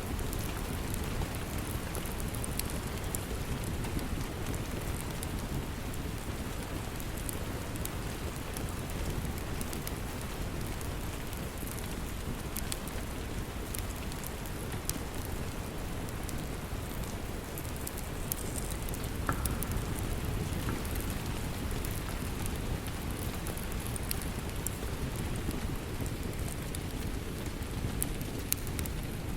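Steady rain, with scattered small sharp crackles from a wood fire.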